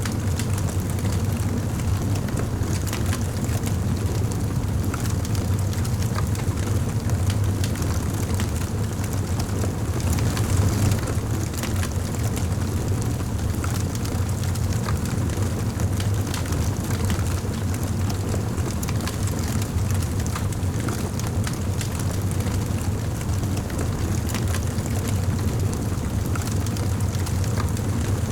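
Wood fire burning in a fireplace: a steady low rumble with scattered crackles and small pops.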